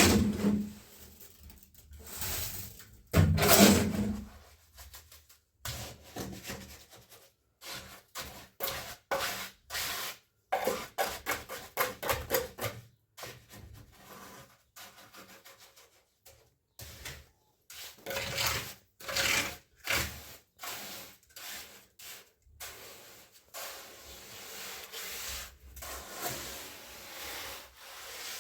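A hand tool scraping and rubbing in repeated strokes. Two louder strokes come near the start, then quick runs of strokes, then fainter, steadier scraping near the end.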